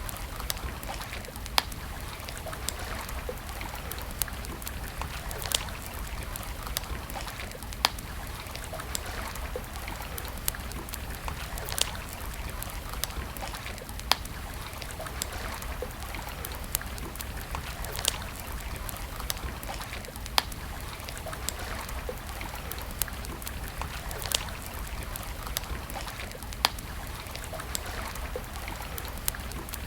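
Campfire crackling: sharp pops every two seconds or so over a steady rushing hiss.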